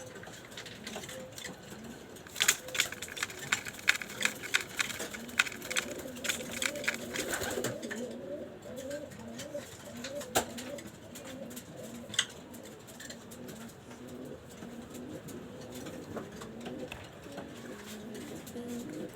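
Pigeons cooing repeatedly in low, wavering calls. A flurry of sharp clicks runs from about two to eight seconds in, with single clicks later.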